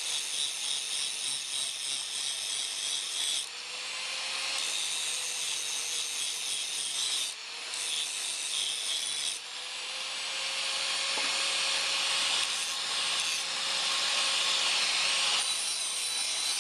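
Power tool grinding the steel of a truck leaf spring: a steady motor hum under a hissing grind, in passes of a few seconds broken by short pauses, growing louder in the second half.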